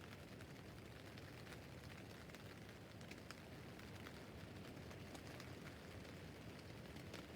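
Rain falling on a tent roof: a faint, steady hiss with many separate drop ticks striking the fabric.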